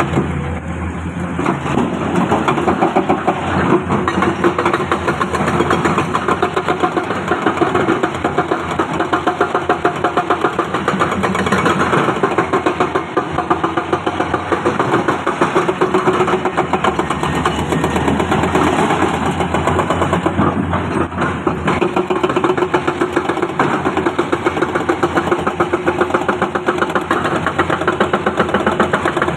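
Heavy diesel engine of earthmoving machinery (excavator or dump truck) running steadily with a fast, even pulse.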